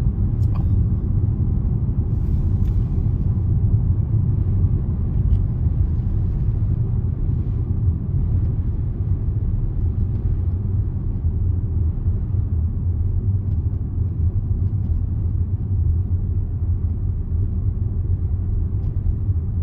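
Steady low rumble of a car on the move heard from inside the cabin: engine drone and tyre noise from the road.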